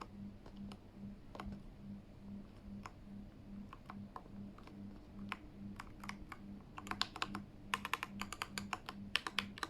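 Keys of a Keychron K8 mechanical keyboard being pressed: a few scattered single keystrokes, then a quick burst of typing in the last few seconds. The typing checks whether the board sounds quieter after the parts swap.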